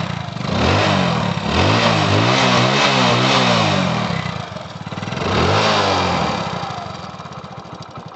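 Hero Splendor Plus single-cylinder four-stroke motorcycle engine, fitted with an aftermarket silencer, revved with a series of quick throttle blips that rise and fall, then dropping back to a ticking idle near the end.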